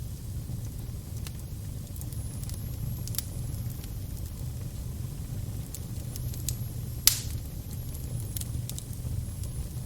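Crackling fire: a steady low rumble of flames with scattered sharp pops and snaps, one loud pop about seven seconds in.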